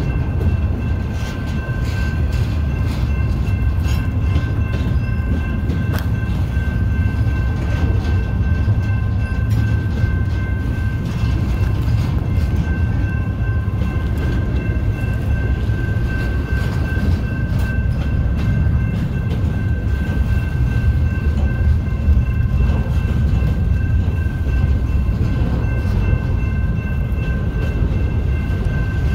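Intermodal freight train cars rolling past: a steady low rumble of wheels on rail with scattered clicks and a thin, steady whine above it.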